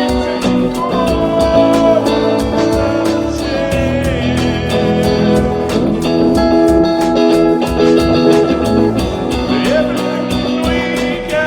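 A band playing improvised music at practice, with guitar notes over a steady beat.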